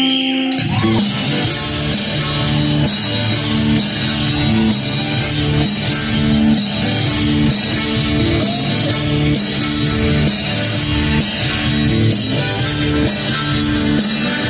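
A live rock band playing an instrumental passage, with drums, bass and guitar. The full band comes in about half a second in, after a held chord.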